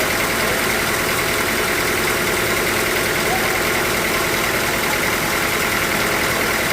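Sawmill machinery running steadily: a constant mechanical drone with a steady high whine over it.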